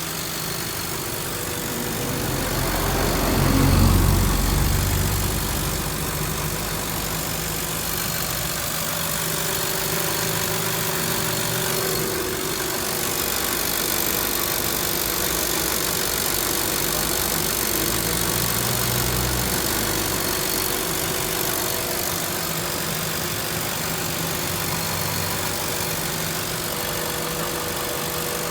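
Toyota Corolla's engine idling steadily. A louder low rumble swells and fades about four seconds in, and a smaller one comes near the end of the second third.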